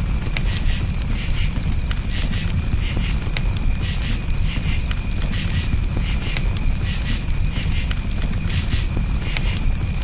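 Campfire crackling with scattered sharp pops over a low steady rumble, while crickets chirp in repeated pulsed trills.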